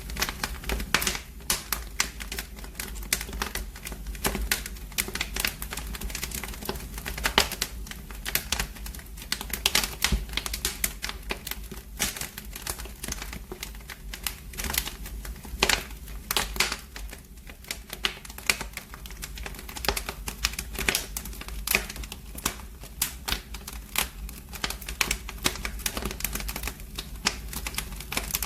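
Wood fire burning in a fireplace, crackling with dense, irregular pops and snaps over a low steady rumble.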